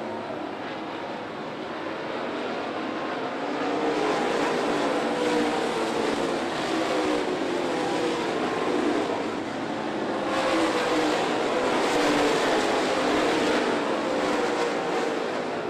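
Dirt late model race cars running laps, their V8 engines rising and falling in pitch as the pack goes around the track. The sound swells about four seconds in and again about ten seconds in.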